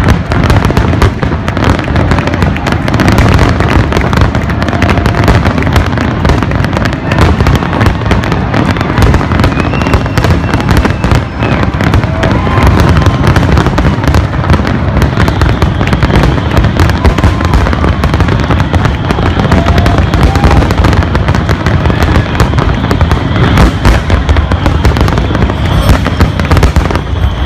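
Aerial firework shells bursting in a dense, unbroken barrage, one loud bang and crackle after another with no pause.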